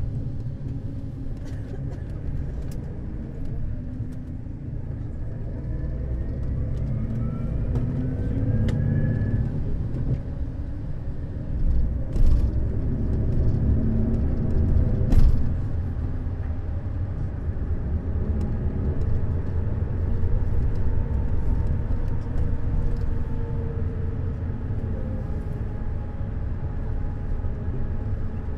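Neoplan Skyliner N 1122/3C double-decker coach's diesel engine and drivetrain running steadily with a deep low rumble as the coach drives. Two sharp knocks come about three seconds apart near the middle.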